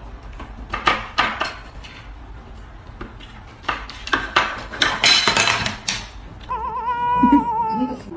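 Objects clattering and clinking, like dishes or small things being knocked about, in a series of sharp knocks. Near the end an animal gives one wavering, shaky cry lasting about a second and a half.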